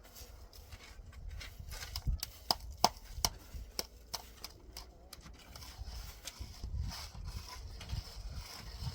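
A series of irregular sharp knocks and clicks over a steady low rumble, the loudest knocks coming from about two to five seconds in.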